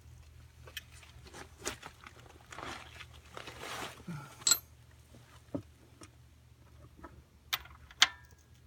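Metal sockets and a socket wrench clinking and clicking as they are handled and swapped, with a stretch of rustling in the middle; one clink near the end rings briefly.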